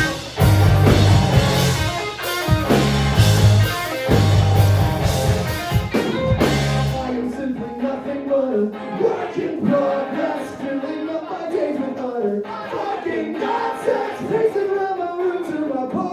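Live band playing a song with guitar: the full band with bass and drums for about seven seconds, then the low end drops out and the song carries on with singing over lighter accompaniment.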